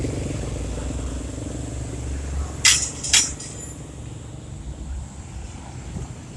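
Street traffic: a vehicle's low engine rumble that fades out, then two sharp metallic clinks about half a second apart.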